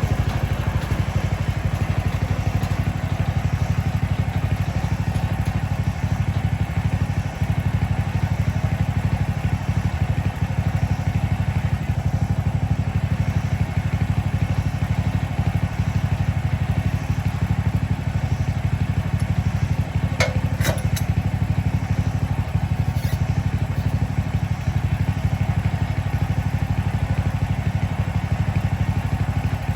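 Mechmaxx portable bandsaw sawmill's small engine running steadily, with a couple of sharp clicks about two-thirds of the way through.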